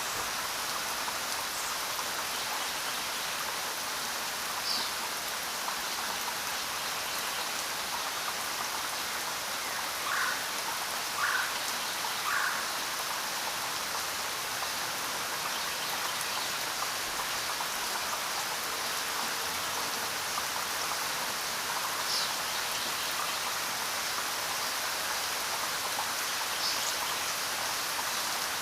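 Steady rain falling, an even hiss, with a few brief sharp sounds on top: three close together around the middle and single ones near the start and end.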